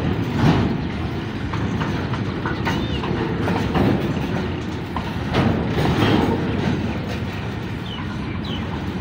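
Freight train of open box wagons rolling past: a steady wheel-on-rail rumble with repeated clanking knocks as the wheels cross rail joints, and a few brief high wheel squeaks.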